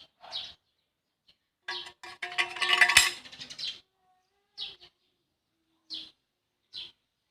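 Short, high bird chirps every second or two, with a louder, longer, mixed sound about two to four seconds in that has a sharp click in the middle.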